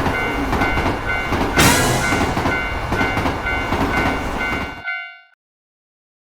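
A Shinkansen train rushing through a level crossing while the crossing warning bell keeps ringing. There is a brighter surge of hiss about a second and a half in. The train noise fades and cuts off about five seconds in.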